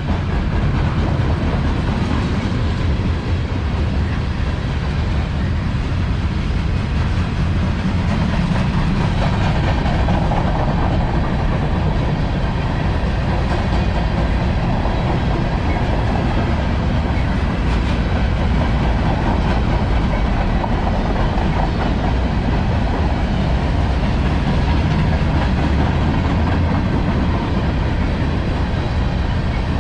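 CSX freight train rolling past at steady speed: the continuous noise of steel wheels on the rails, heaviest in the low end, with no horn or bell.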